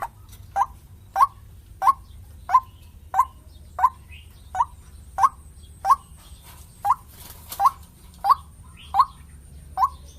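White-breasted waterhen (ruak-ruak) calling a steady run of short single notes, evenly spaced at about three every two seconds.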